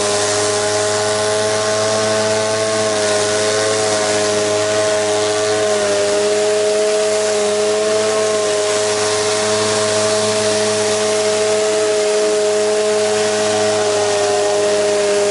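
Gas-engine pressure washer running steadily at an even pitch, with the hiss of the water jet spraying.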